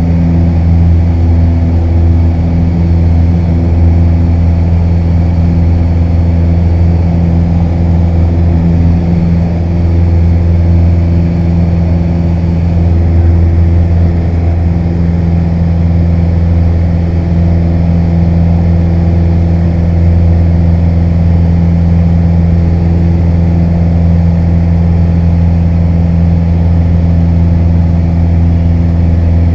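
Piper Warrior's four-cylinder Lycoming engine and propeller running at takeoff power, a loud, steady drone that holds one pitch throughout.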